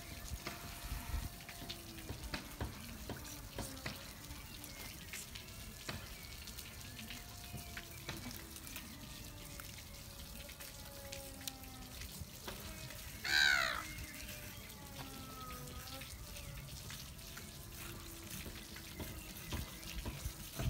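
Water running and trickling, with frequent small clicks and knocks of a knife working on a gummy shark's carcass. About two-thirds through comes one loud, short, high cry.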